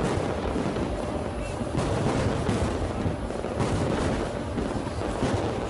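Aerial fireworks exploding in quick, overlapping succession: a continuous barrage of bangs and booms with no pause.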